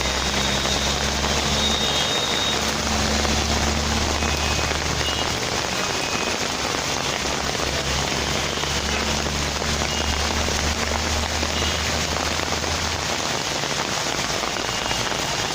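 Heavy rain falling steadily, an even hiss of drops. A low hum of an engine sounds under it twice, for several seconds each time.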